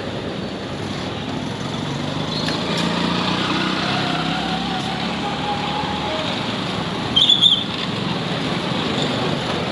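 Road traffic noise, vehicles running by steadily, with a brief high-pitched chirp about seven seconds in.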